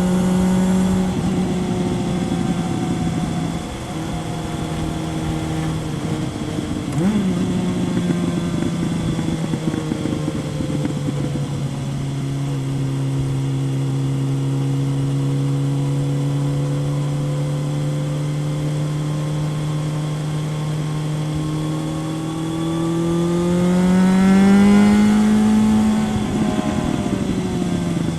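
2000 Kawasaki ZRX 1100's inline-four engine through a Yoshimura exhaust on the move. The pitch steps down in the first few seconds, holds low and steady through a long stretch, then climbs under acceleration near the end and drops at a gear change, with wind noise underneath.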